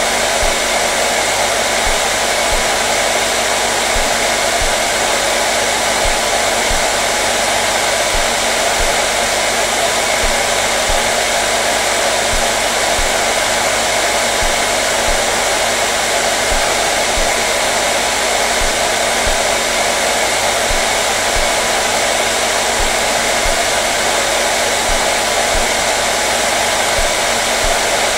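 Hair dryer blowing steadily, an even unbroken rush of air and motor noise with a faint low hum.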